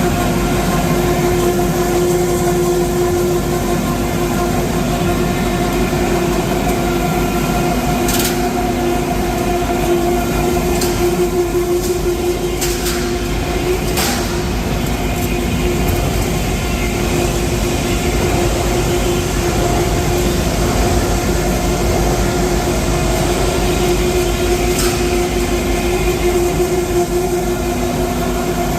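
Scrap plastic washing line running: a loud, steady mechanical din with a constant hum, broken by a few sharp clacks scattered through.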